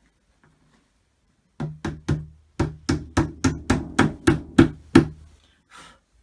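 About a dozen sharp wooden knocks, roughly three a second: wooden dowels being battered into their holes in an IKEA cupboard panel. One softer knock follows near the end.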